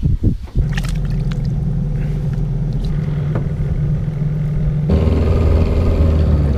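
Boat motor running steadily after a few knocks in the first half-second. About five seconds in, its note suddenly drops deeper and louder.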